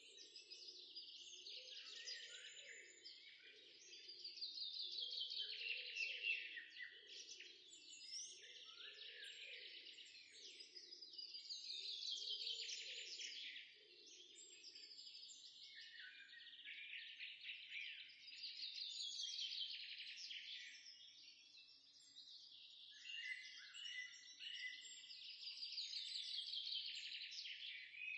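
Birdsong: many small birds chirping and twittering, with a louder descending trilled phrase recurring about every seven seconds. A lower pulsing sound runs under it through the first half.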